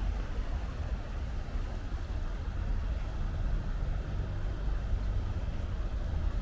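Steady low rumble of distant road traffic, even throughout with no distinct events.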